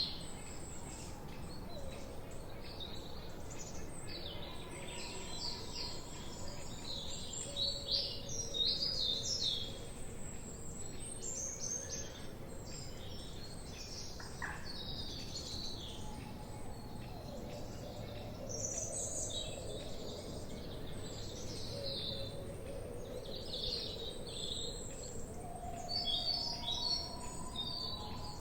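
Many small songbirds chirping and singing in a forest, short high calls and trills overlapping throughout, over a steady background hiss. Some lower, longer notes join in during the second half.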